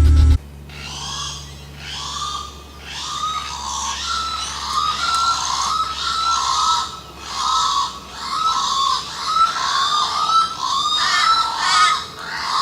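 A bird calling over and over: short arched calls, several a second, in runs broken by brief pauses.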